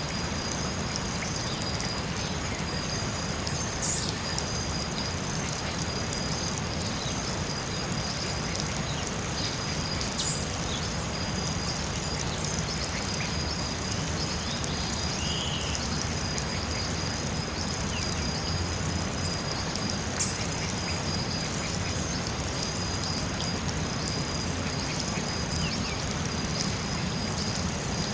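Tropical forest ambience: a steady high insect chorus of one or two sustained shrill tones over a low rushing background, with a few short high bird calls, the loudest about two-thirds of the way through.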